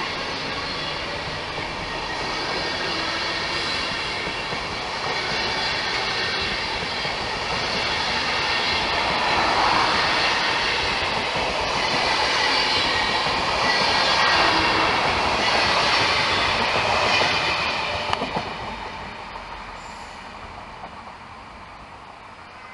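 A train of SBB passenger coaches rolling past at close range, steel wheels squealing on the rails over a steady rumble of track noise. The noise swells and then falls away about three-quarters of the way through.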